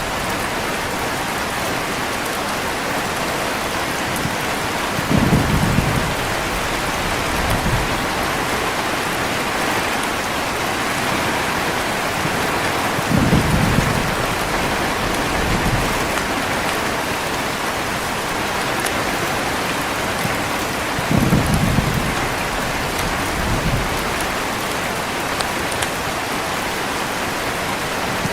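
Heavy rain falling steadily, with low rumbles of thunder rising and fading about every eight seconds, three times.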